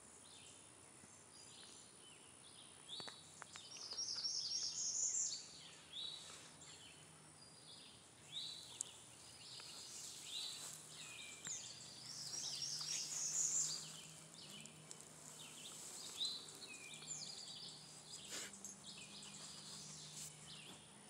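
Birds singing, short chirped and warbled phrases following one another, loudest about four seconds in and again around thirteen seconds in.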